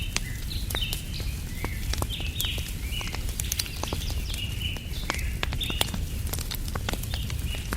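Wood fire crackling, with frequent sharp pops, under small birds chirping in quick repeated short calls, several a second. A low steady rumble lies beneath.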